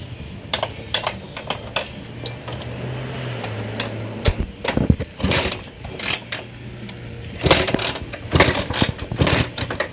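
A 1933 DKW 500 two-stroke motorcycle being started: irregular mechanical clatter and clicks, a low hum that comes and goes twice, and two clusters of loud sharp bursts in the second half, without settling into a steady idle.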